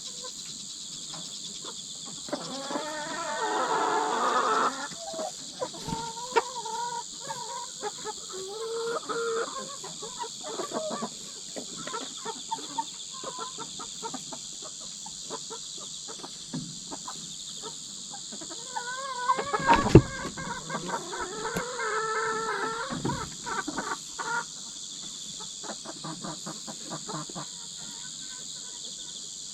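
Hens clucking and squawking: one long loud squawk about three seconds in, scattered clucks, then a loud bout of squawking with a few sharp thumps about two-thirds through. These are the calls of a pecking-order squabble between newly merged hens. Insects chirr steadily throughout.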